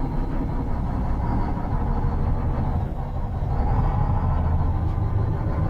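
Old Mack roll-off truck's diesel engine running with a steady low rumble as the truck is maneuvered into park, swelling a little past the middle.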